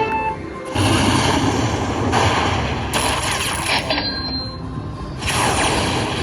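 Lightning Link slot machine sound effects: a run of loud, noisy booming bursts that replaces the game's jingle about a second in, with a brief quieter dip near the middle before a last burst.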